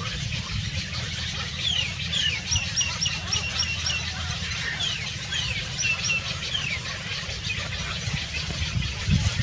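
Small birds chirping: quick down-slurred chirps and a fast run of repeated high notes, about four a second, with more chirps a few seconds later, over a steady low rumble.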